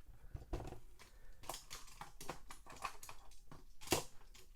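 Irregular light clicks and taps of die-cast toy cars and plastic track parts being handled and set in place, with one sharper click near the end.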